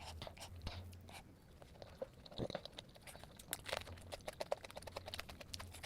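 Close-miked eating: soft, irregular chewing and small crackly mouth sounds, over a faint steady low hum.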